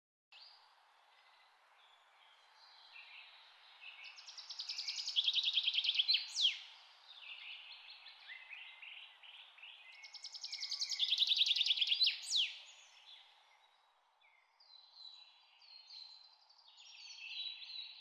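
A bird singing over a steady background hiss: twice, a rapid trill swells in loudness for about two seconds and ends in a quick sweeping note, with softer scattered chirps between and near the end.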